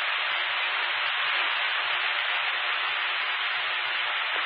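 Steady hiss of an open fire-radio scanner channel carrying no voice, cut off sharply at the very end.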